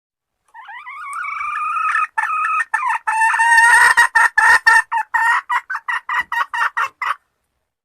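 Female junglefowl calling: a drawn-out call that rises at first and then breaks into a quick run of short clucks, about four a second, ending suddenly about seven seconds in. This is the hen's call used to lure a junglefowl cock.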